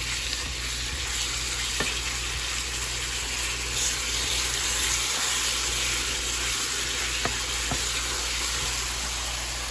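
Ground beef frying in a pan, a steady sizzle, with a few light clicks from a utensil or the seasoning shaker.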